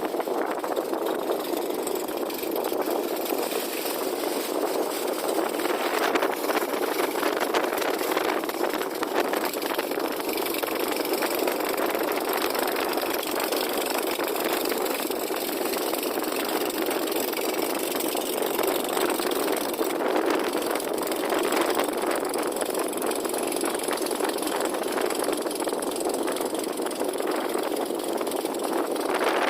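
Fishing boat's engine running steadily at an even pace.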